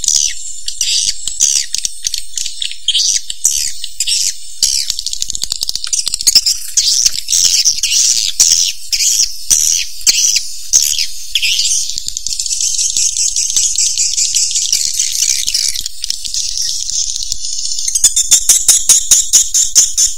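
Edible-nest swiftlets calling: dense, high-pitched chirps and twitters, with a fast train of clicks near the end. This is a swiftlet lure call, the kind played to draw swiftlets into a nesting house.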